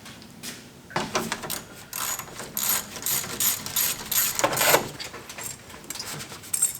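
Hand ratchet wrench clicking in quick runs as fasteners are worked on a truck's engine bay.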